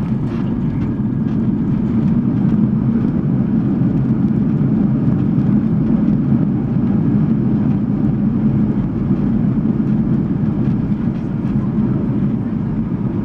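Inside the cabin of a Boeing 737 airliner during landing: a steady, loud low rumble of jet engines and rushing air.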